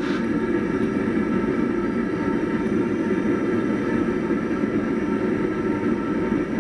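A blacksmith's forge running with a steady, even rushing noise that holds level throughout, with no hammer blows.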